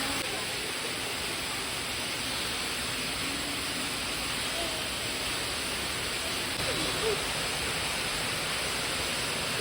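A steady rushing noise, even throughout, with faint distant voices underneath.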